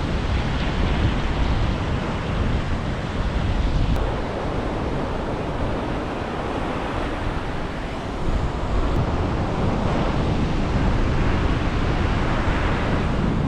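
Ocean surf washing on the beach, with strong wind rumbling on the microphone; the surf swells a little near the end.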